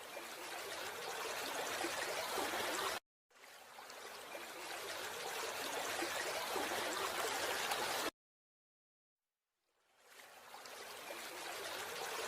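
Steady rushing noise like flowing water, heard in three separate stretches that each fade in gradually and then cut off abruptly.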